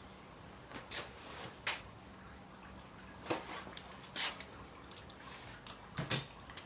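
Scattered light metallic clicks and taps from hand work on the small-block Ford 302's roller rocker arms and adjusters during valve lash setting, spaced irregularly about a second apart, over a faint steady hum.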